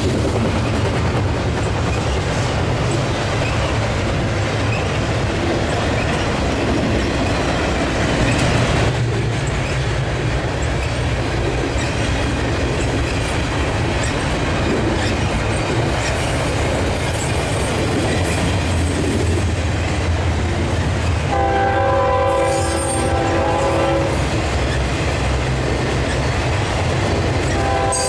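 Long double-stack container train rolling past, with a steady wheel rumble and clatter over the rail joints. About two-thirds of the way through, a diesel locomotive horn sounds a chord for about two and a half seconds, then starts again right at the end.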